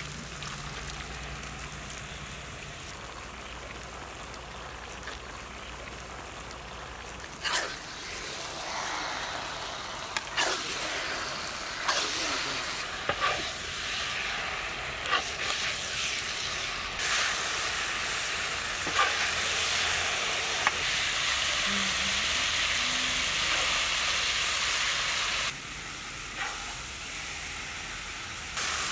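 Raw boneless chicken sizzling and frying in masala on a large flat tawa. A spatula scrapes and clacks against the pan as it stirs the pieces in. The sizzle grows louder about a third of the way in, as the chicken is turned into the hot masala.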